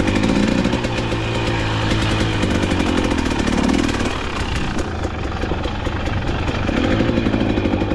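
KTM dirt bike engine running under way, the throttle opening up and easing off a few times.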